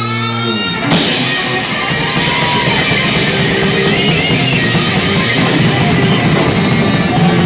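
Live rock band playing an instrumental passage: electric guitar over drums, with a loud hit about a second in.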